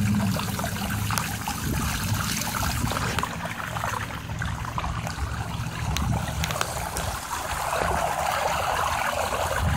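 Floodwater splashing and sloshing as a minibike rides through it. Underneath runs the bike's small two-stroke weedeater engine, its steady note breaking up into an uneven rumble about half a second in.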